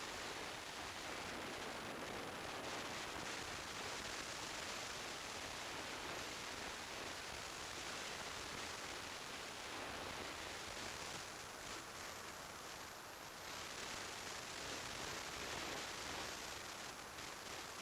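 Steady rush of wind and road noise on a motorcycle-mounted camera riding at speed, with no clear engine note standing out. It eases slightly about twelve seconds in.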